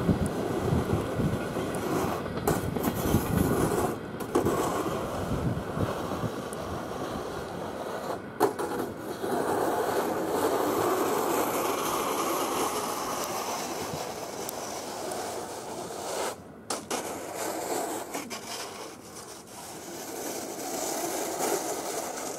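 Passenger train carriages rolling away at speed over the rails: a steady rushing rumble of wheels on track that slowly fades as the train draws off.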